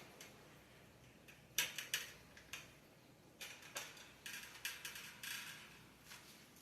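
Light scattered clicks and taps of small plastic clips being handled while securing the racks of a mini greenhouse, about a dozen irregular ticks.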